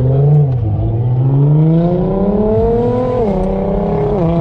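Car engine accelerating hard in a tunnel. Its pitch climbs steadily and drops sharply when it shifts up, once about half a second in and again a little after three seconds.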